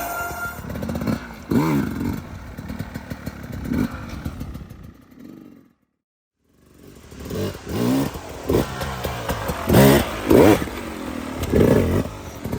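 Dirt bike engine revving up and down over and over, its pitch rising and falling, with clattering between revs. The sound drops out completely for about a second midway.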